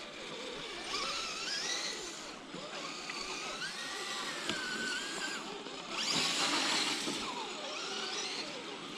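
Electric motors and geared drivetrains of RC scale crawler trucks whining, the pitch rising and falling as the throttle is worked. A louder hissing burst about six seconds in.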